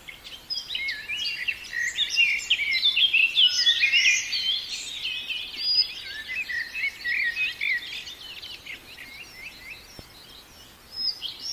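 A chorus of many small birds chirping and twittering at once, the calls overlapping densely, busiest in the middle and thinning out toward the end.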